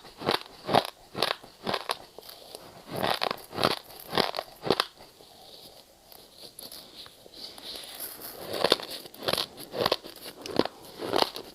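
Ice being bitten and chewed close to the microphone: sharp crunches in quick clusters, with a quieter pause in the middle before the crunching picks up again.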